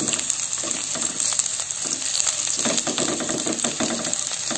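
Sliced shallots and garlic sizzling in hot oil in a non-stick pan, with a silicone spatula stirring and scraping through them, the stirring busiest in the second half.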